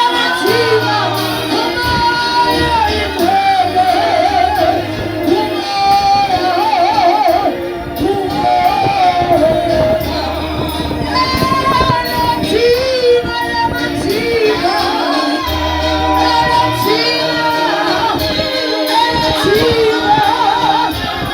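Gospel praise and worship music: women's voices singing a melody with vibrato, backed by keyboard with sustained bass notes and a steady beat of percussion.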